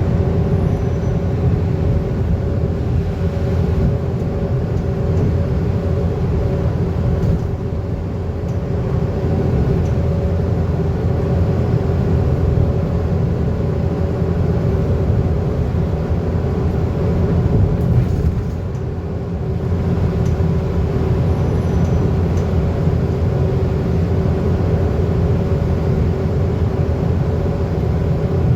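Scania N230UD double-decker bus heard from inside while under way: its five-cylinder diesel engine runs steadily with road rumble and a steady hum. The noise dips briefly about eighteen seconds in.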